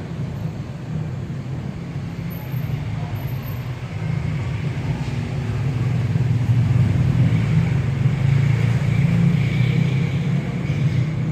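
A low engine rumble, like a motor vehicle running close by, that grows louder about four seconds in and stays strong to the end, with a faint thin whine over it near the end.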